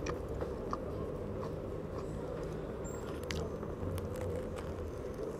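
A person chewing and biting into a soft-bread sandwich, with small wet mouth clicks, over a steady low background noise.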